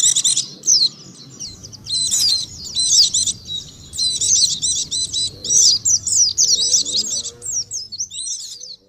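White-eye (pleci) song, a lure call for white-eyes: rapid, high twittering phrases of quick up-and-down notes in bursts, with a short lull about a second in, stopping suddenly near the end.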